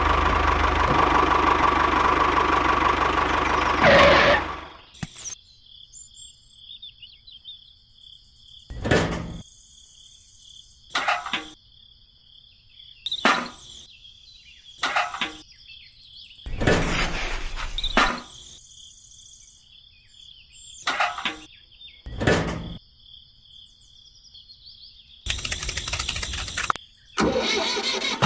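Small electric motors of a homemade toy tractor and model machine whirring. The first few seconds are a loud run, then come short bursts every couple of seconds over a faint steady high whine, and a longer loud run near the end.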